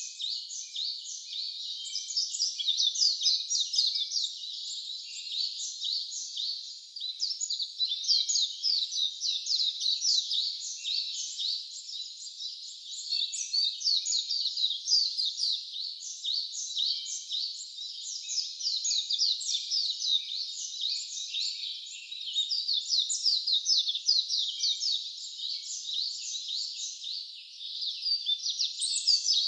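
Dense, continuous high-pitched chirping and twittering of wild songbirds, many short calls overlapping without a break.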